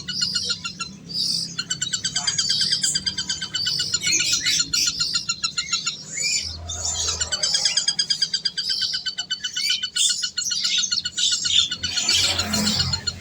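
Several small birds chirping and calling over one another, with quick trills and rapid repeated notes.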